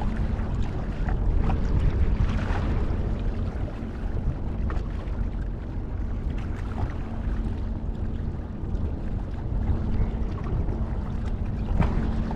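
Wind rumbling on the microphone over harbour water, with a faint steady hum in the background and a few light clicks.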